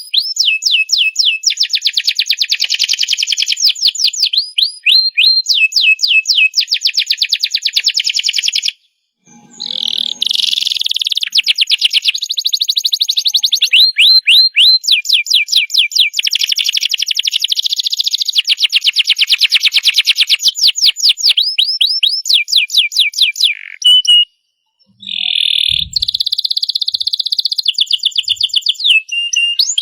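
Domestic canary singing a long song of rapid trills and fast repeated down-slurred notes, high-pitched. It breaks off briefly twice.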